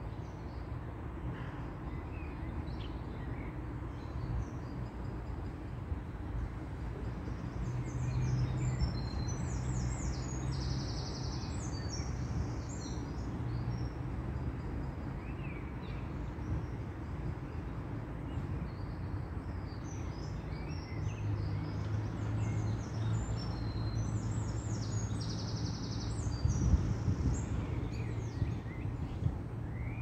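Small birds chirping and singing in short high calls, coming in two busy spells, over a steady low outdoor rumble.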